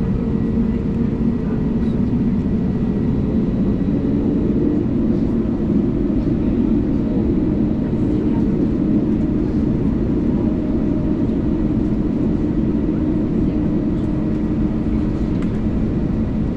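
Steady cabin noise inside an Airbus A320neo taxiing, its CFM LEAP-1A engines running at taxi power: an even low rumble with a faint steady whine above it.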